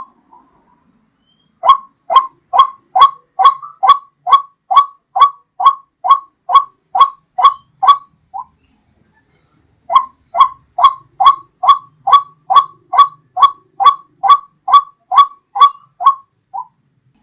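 White-breasted waterhen (ruak-ruak) lure call: a fast run of short, identical notes about two a second. It breaks off about eight seconds in for a second and a half, then starts again and runs until shortly before the end.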